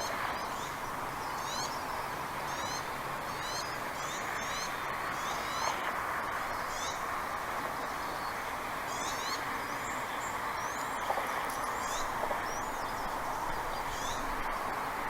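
Bald eagle calling: runs of short, high, downward-sliding chirps, a few at a time, over a steady background hiss.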